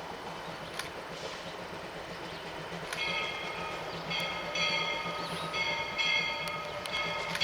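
Narrow-gauge train running, drawing closer. From about three seconds in, a high-pitched whine comes and goes several times, over a steady low hum.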